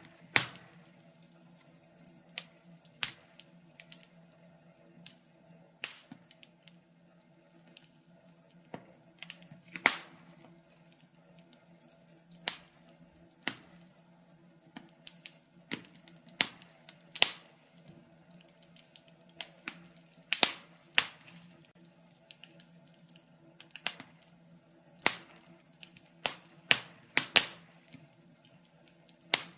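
Wood fire crackling in a fireplace: irregular sharp pops and snaps, some louder than others, a few a second, over a faint steady low hum.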